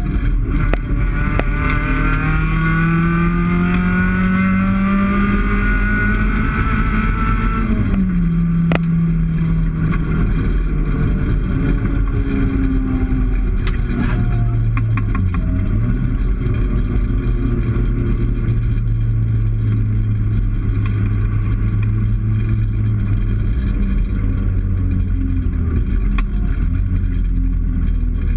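Rally car engine heard from inside the cabin, climbing steadily in revs under full acceleration for about eight seconds, then dropping sharply off the throttle. It then runs at a lower, fairly steady speed with small dips, over road noise, with scattered clicks and knocks.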